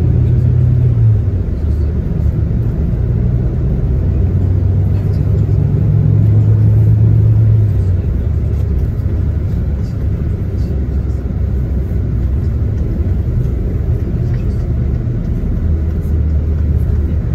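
Tour coach's diesel engine running on the road, heard from inside the cabin: a strong engine drone that eases off about eight seconds in, leaving a lower hum over road rumble.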